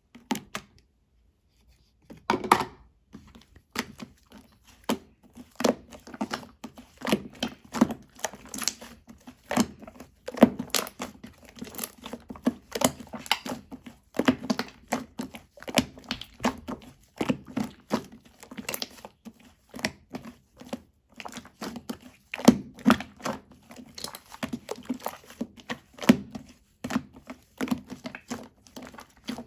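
Sticky slime being squeezed, stretched and folded by hand, giving a dense, irregular run of wet clicks and pops, several a second, starting about two seconds in.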